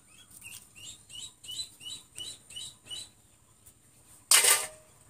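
A bird chirping repeatedly, about three short chirps a second for a few seconds. Then comes a single loud, harsh burst lasting about half a second near the end.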